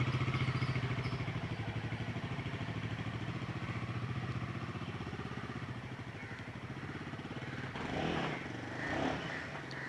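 Royal Enfield Himalayan 450's single-cylinder engine running as the bike rides away, its steady pulsing note fading gradually into the distance.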